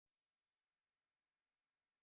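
Near silence: digital silence before the audio begins.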